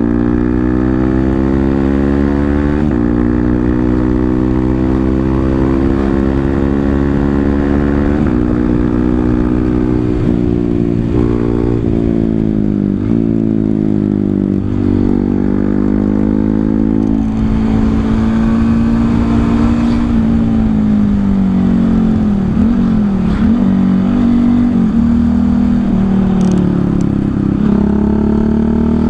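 Honda CRF 150L's single-cylinder four-stroke engine through a Tridente F19 full-system exhaust with its honeycomb baffle removed, heard from the rider's seat. The bike accelerates, the engine note climbing through the gears with a short drop at each shift, then holds a steadier pace, eases off and picks up again near the end.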